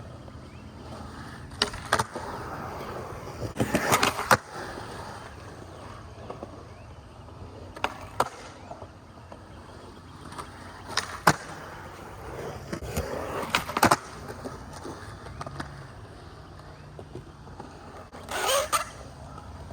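Skateboard rolling, with a sharp clack of the board hitting the ground every few seconds as shove-it tricks are tried, and a longer scrape near the end.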